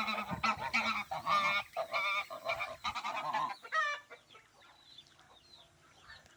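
Farmyard birds honking: a run of loud, wavering calls for nearly four seconds, then only faint, thin chirps.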